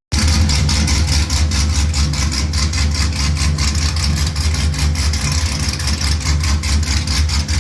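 Chevrolet Camaro SS V8 idling steadily. It is loud through Speed Engineering long-tube headers and a 3-inch X-pipe, with no mufflers fitted yet.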